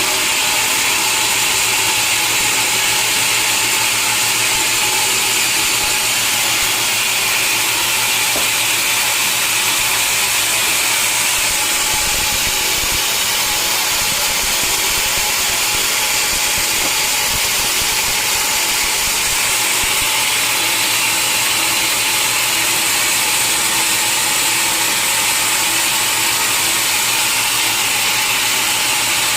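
Sawmill machinery running steadily, with a continuous noise that sits high in pitch.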